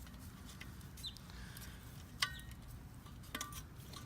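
Metal tools clinking against the steel of the blade as the handle rivets are worked at: one sharp ringing clink about two seconds in, then a few lighter clinks over a second later, with a faint short chirp about a second in.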